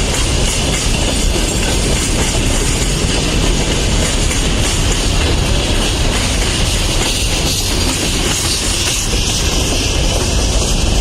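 Freight train rolling by, with a steady, loud noise of wheels on the rails.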